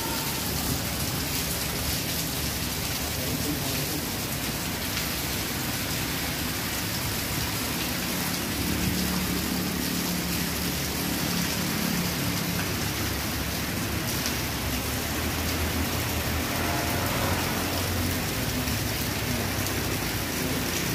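Heavy rain pouring steadily onto flooded ground and water-covered paving, an even, unbroken hiss. A low rumble comes and goes beneath it.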